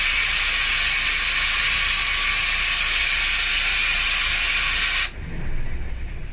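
Loud steady hiss of compressed air from an air line filling the Volvo B9R bus tyre's new tube, cutting off suddenly about five seconds in, with a low hum underneath.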